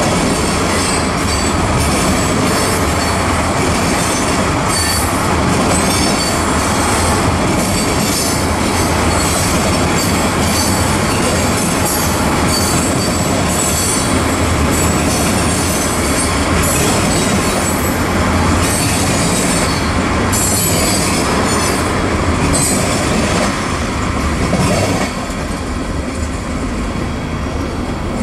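Freight train cars (covered hoppers and tank cars) rolling past: a steady loud rumble of steel wheels on rail, with repeated high-pitched wheel squeal and clacking. The sound drops a little about 25 seconds in.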